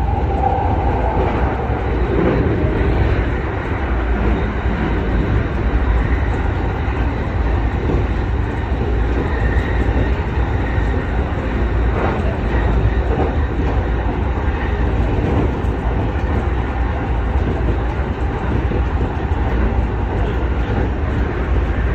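Electric commuter train running along the track, heard from inside the front car: a steady rumble of wheels on rails.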